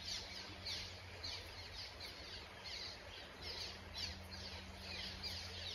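Faint birdsong: many short, high, downslurred chirps repeating a few times a second, over a steady low hum.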